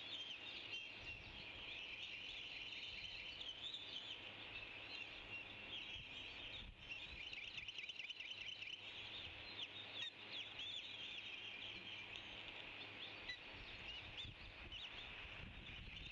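A flock of small birds chirping and chattering all at once in a dense, continuous stream of short high calls.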